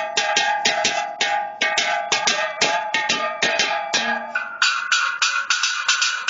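Metal cans struck as percussion in a quick, even run of about five hits a second, each hit ringing with a clear metallic pitch. About four and a half seconds in, the ringing pitch jumps higher.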